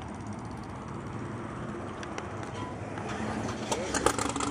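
Classic muscle car engines running with a steady low rumble. Near the end a rapid rhythmic ticking, several beats a second, comes in and grows louder.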